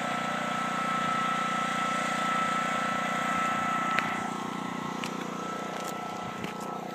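Steady mechanical drone holding a constant high tone, with a single click about four seconds in, after which it runs slightly quieter.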